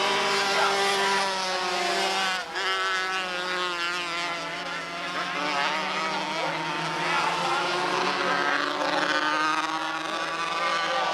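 Several small race-car engines running hard on the track together, their pitch rising and falling as they rev and pass, with a brief drop in level about two and a half seconds in.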